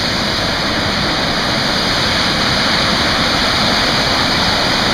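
Steady, loud rush of water pouring over the rocks of a waterfall, heard up close.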